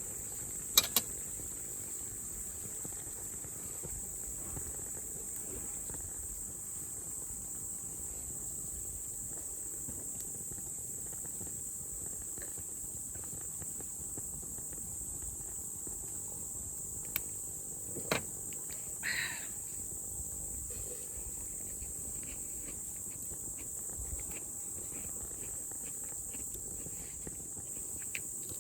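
Steady high-pitched chorus of insects in a forest, with a few sharp clicks near the start and around eighteen seconds in, followed by a brief rustle.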